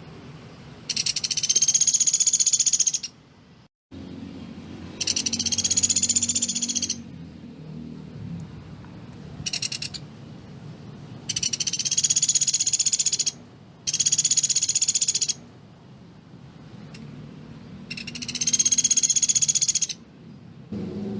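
Pelatuk beras woodpecker giving a series of rapid, dry rattling trills: its tight 'shooting' song. Each trill lasts about two seconds, with one brief trill in the middle, and its pitch arches slightly up and down. A low steady hum sits beneath.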